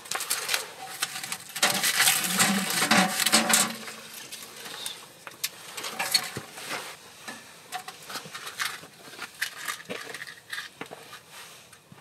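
Dry, paper-thin wood shavings rustling and small split kindling clattering as they are laid by hand in a wood stove's firebox: a run of light crackles and knocks, busiest from about two to four seconds in, then sparser clicks.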